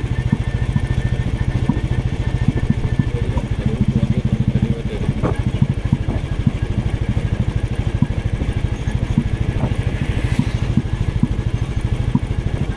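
Motorcycle engine running steadily while riding, its firing pulses heard close from the bike itself.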